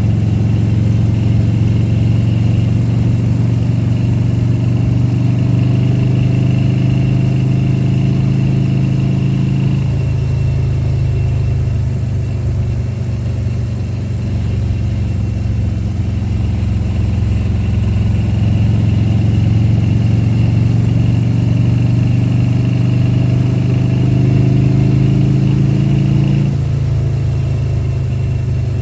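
Harley-Davidson Road King's V-twin engine running under way. It steps down in pitch about ten seconds in, climbs slowly in pitch later on, then drops sharply again near the end as the throttle is eased or a gear changes.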